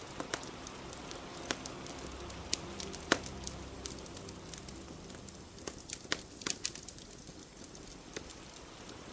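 Fire crackling with irregular sharp pops, the loudest about three seconds in, over a steady hiss of rain.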